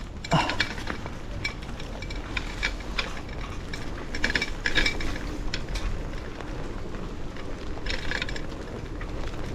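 Bicycle being ridden along a street, rattling and clicking irregularly as it rolls, with short hissing bursts about four seconds in and again near the end.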